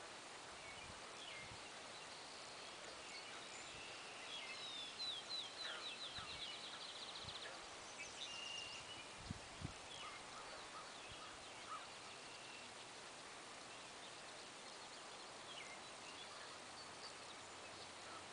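Small birds singing faintly over a steady outdoor hiss, with one bird giving a fast run of about a dozen quick descending notes about four seconds in and scattered short chirps elsewhere. Two brief low thumps come about nine seconds in.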